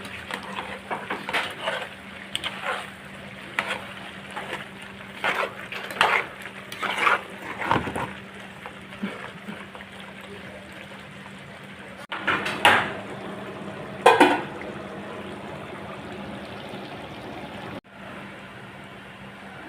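Dishes and metal utensils clattering: a run of sharp knocks and clinks through the first half, then two louder clatters, over a steady low hum.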